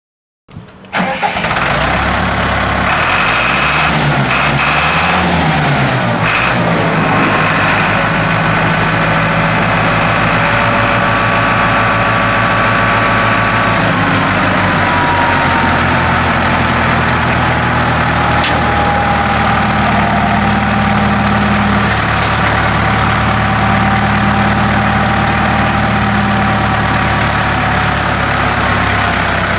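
International 784 tractor's diesel engine starting up, its speed rising and falling a few times in the first seconds, then running steadily, settling a little lower about halfway through.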